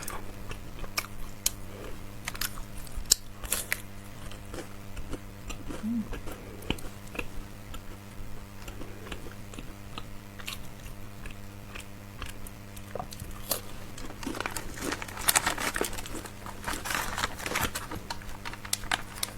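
Close-up biting and chewing of a crisp, flaky biscuit, with scattered crunches. From about fourteen seconds in, a denser spell of crackling and crinkling sets in.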